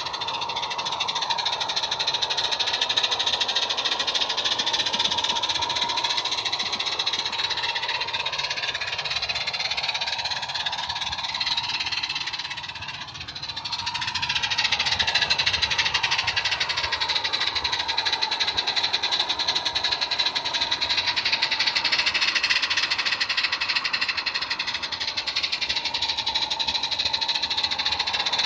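A small-scale garden railway train running along its track, a steady mechanical running sound with shifting pitch that dips about halfway and then picks up again.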